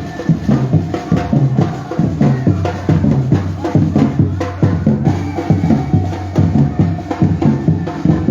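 Batucada percussion ensemble playing live: bass drums and other drums beating a loud, steady, driving rhythm.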